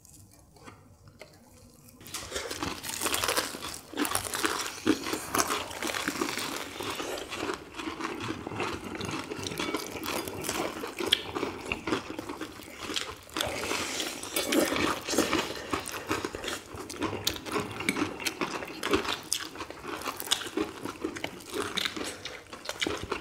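Fried chicken drumsticks being bitten and chewed close to the microphone: crisp batter crunching amid wet chewing, in a dense, irregular stream that starts about two seconds in.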